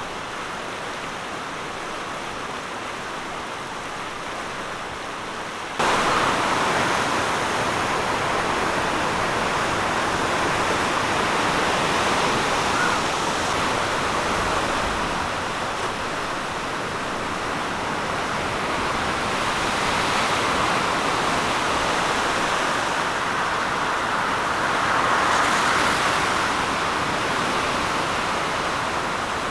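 A beck in full flood after heavy rain: a steady rush of fast-flowing water. About six seconds in, the sound cuts abruptly to a louder, brighter rush.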